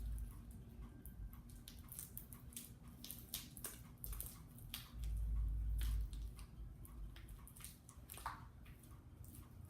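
Sticky white-glue slime, just activated with borax, squelching and crackling as hands squeeze and work it, many small wet clicks. A low rumble lasts about a second near the middle.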